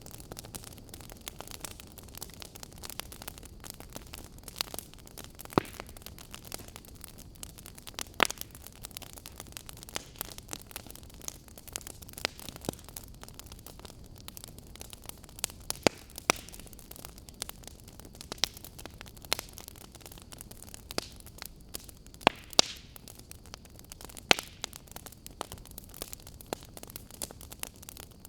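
Wood fire in a fireplace crackling: irregular sharp pops and snaps over a steady soft hiss, with a handful of louder pops scattered through.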